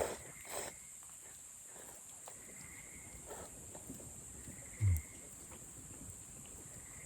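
Night insects trilling steadily and high-pitched, with a short dull low thump about five seconds in.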